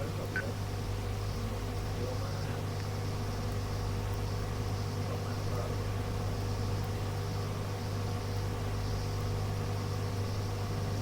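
Steady low hum with a faint hiss from a radio receiver between transmissions, with no one on the frequency.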